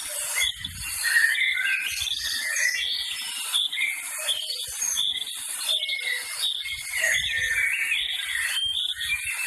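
Many birds chirping and calling at once in a dense, overlapping chorus, over a steady high-pitched hiss.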